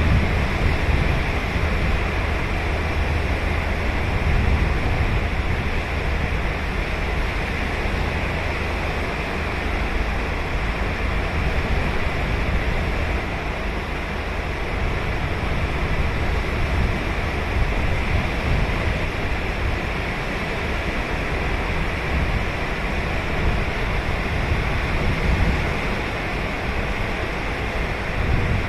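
Ocean surf breaking and washing on a beach: a continuous rushing noise with a deep rumble that swells and eases gently.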